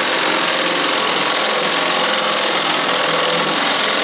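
Power drill running at a steady speed, a constant loud motor whine with gear noise and no let-up.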